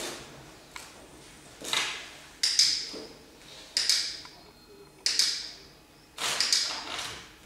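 Dog sniffing hard in about five loud, breathy snuffles, roughly one a second.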